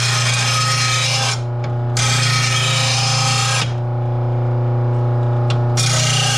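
Blade-sharpening grinder running with a steady motor hum while a push-mower blade is ground against its disc in passes: the grinding hiss breaks off briefly about a second and a half in, stops again for about two seconds in the middle, then starts again near the end.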